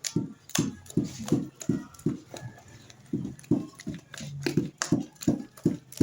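Steady rhythmic knocking, about three dull strokes a second.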